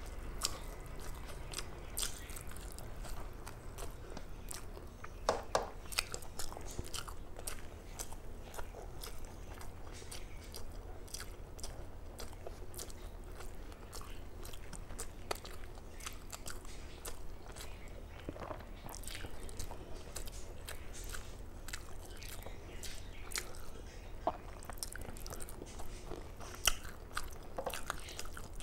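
Close-miked chewing and mouth sounds of a person eating rice and curry, with many small irregular clicks and an occasional crunch. A low steady hum runs underneath.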